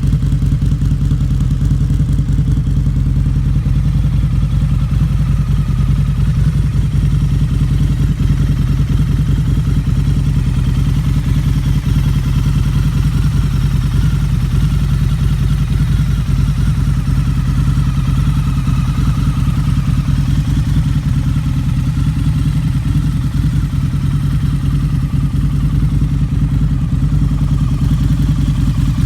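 Harley-Davidson V-Rod's liquid-cooled V-twin engine idling steadily, with no revving.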